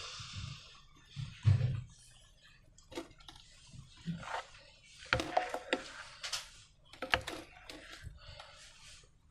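Hands handling slime and balloons: a low thump about a second and a half in, then scattered clicks and crackly, squishy rustles.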